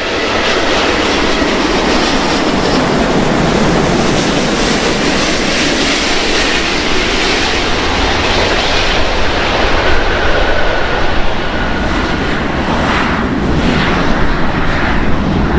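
Loud, steady jet noise from an Airbus A380's four engines as the airliner passes close by on its landing approach, a deep rumble together with a rushing hiss.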